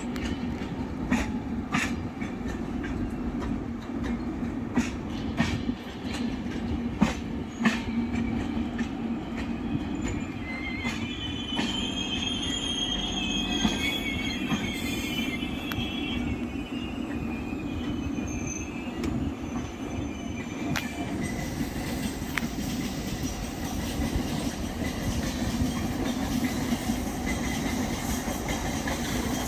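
Passenger express train's coaches rolling along the track, a steady rumble with sharp wheel clicks over rail joints in the first few seconds. Wheels squeal in a high, wavering tone for a few seconds partway through.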